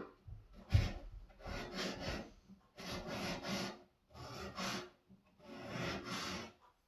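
Scissor blade scraping in five rasping strokes, about one a second, as the burr raised by sharpening is pushed back off the edge.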